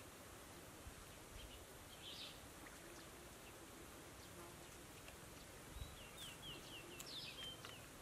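Near silence: faint open-air ambience, with a small bird giving a quick series of short, high, downward chirps about six seconds in.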